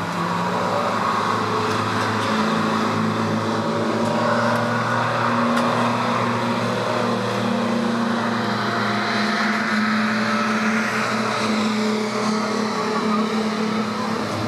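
Classic DTM touring-car engines running at low, fairly steady revs, several steady engine tones over a broad noisy hiss, with one note rising slightly around the middle.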